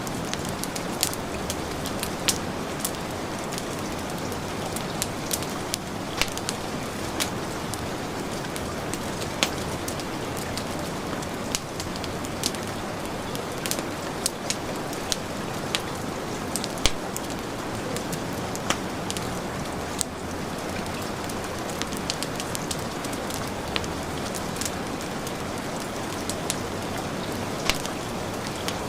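Steady heavy rain with the crackle of a wood fire laid over it: sharp irregular pops and snaps, several a second, above a constant rushing hiss.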